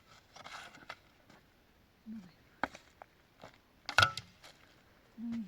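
A handful of scattered knocks and clicks, the loudest about four seconds in, with two short low hums.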